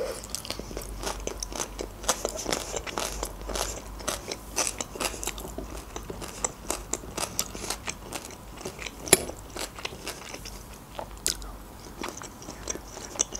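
Close-up crunchy chewing of raw shredded red-cabbage salad: a steady run of wet, crackly crunches. One sharper click stands out a little past the middle.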